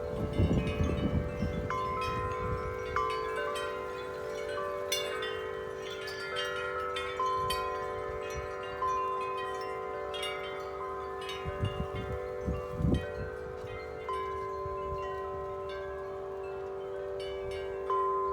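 Several large tuned wind chimes ringing in strong wind, struck again and again so their long tones overlap and sustain. Gusts of wind rumble on the microphone at the start and again about twelve seconds in.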